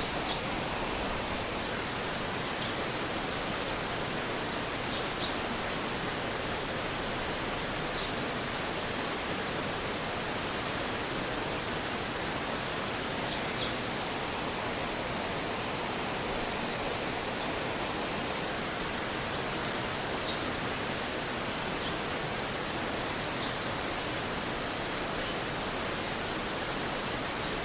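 Stream water rushing steadily, an even constant noise, with a dozen or so short high chirps scattered through it.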